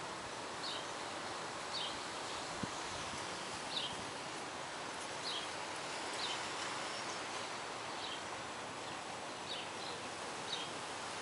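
Outdoor ambience: a steady background hiss with a bird giving short, high chirps at irregular intervals, roughly one a second.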